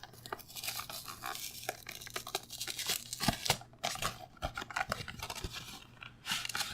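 The cardboard box of a frozen Stouffer's chicken pot pie being torn open and its packaging handled: ripping paperboard with crinkling and rustling, and many small clicks and scrapes.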